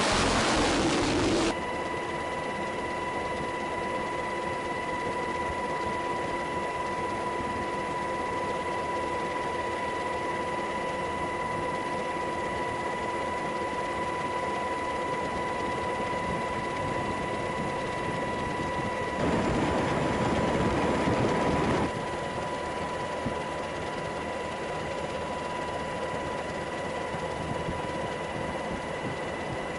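Steady machine hum carrying a constant high whine. A louder rush of noise breaks over it at the very start and again about twenty seconds in.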